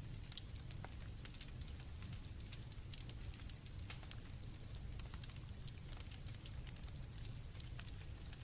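Campfire crackling, with scattered sharp pops over a low rumble, and crickets chirping steadily on a high pitch behind it.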